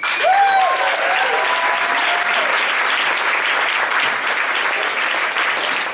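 Audience applauding, with a few voices whooping in the first couple of seconds, as a live song ends.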